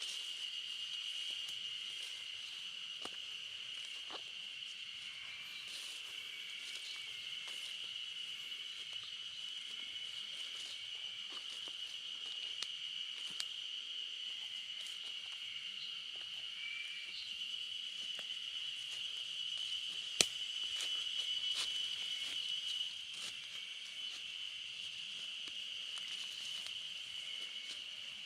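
A steady, high-pitched chorus of insects droning without a break, with faint short chirps and scattered light ticks, and one sharp click about twenty seconds in.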